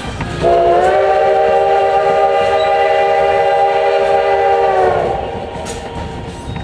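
Steam whistle of Baldwin 2-8-2 locomotive #152 sounding one long blast of several tones at once, slightly rising in pitch as it opens and sagging as it closes, lasting about four and a half seconds. It sounds over the rumble and clatter of the passenger car rolling along the track.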